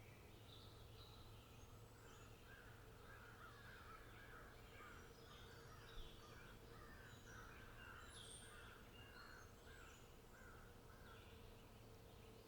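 Faint wild birdsong: several birds calling, one of them giving a long run of repeated, even notes through most of the stretch, with higher chirps over it. A single soft tap sounds about halfway through.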